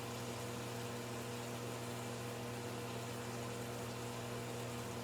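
A steady low electrical hum over an even hiss, unchanging throughout.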